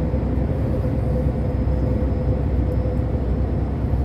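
Truck running steadily at highway speed: an even low engine and road rumble with a constant hum above it.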